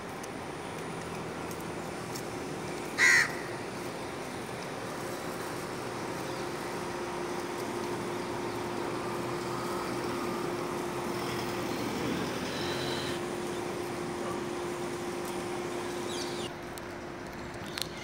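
A single short, loud bird call about three seconds in, over steady background noise.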